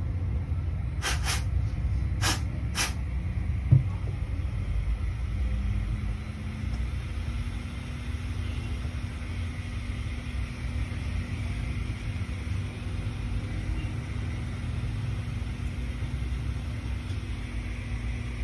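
Steady low rumble, with a few short hissing bursts and a sharp click in the first four seconds.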